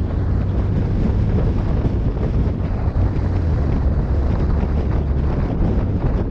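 Vehicle driving off-road: a steady low rumble with wind buffeting the microphone.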